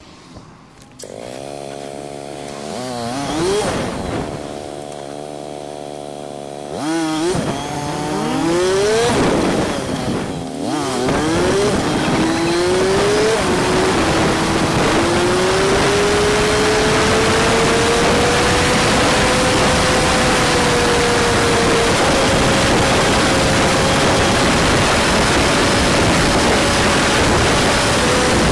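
Honda CG125's single-cylinder four-stroke engine idling, revved briefly, then pulling away and revving up through several gears, its pitch dropping back at each change. It then settles into a steady cruise with wind rushing over the microphone.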